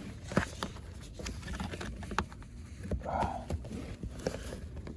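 Scattered light knocks and clicks, with a short rustle about three seconds in: handling noise.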